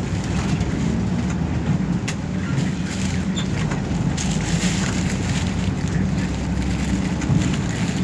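Inside a city commuter bus: the engine runs with a steady low rumble, with light cabin rattles and clicks over it.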